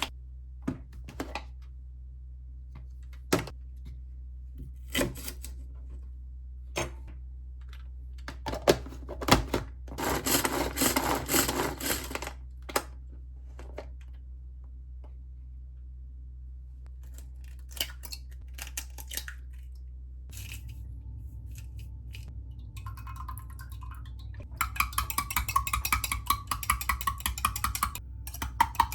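Kitchen work sounds: scattered knocks and clicks of utensils and containers, a stretch of scraping about a third of the way in, and busier clattering near the end over a steady low hum.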